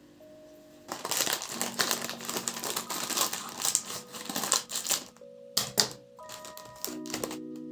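Dense crinkling and crackling handling noise starting about a second in, followed by a couple of sharp clicks and a short crackle near the end, over soft background music.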